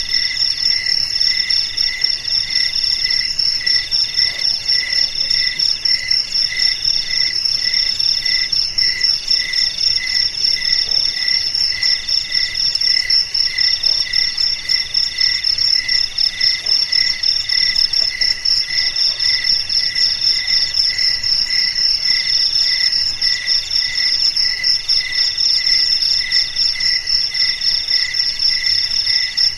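A chorus of crickets chirping without pause. Several callers overlap at different pitches: a continuous fast high trill, a middle-pitched trill in bursts about a second long with short breaks, and a lower chirp repeated about twice a second.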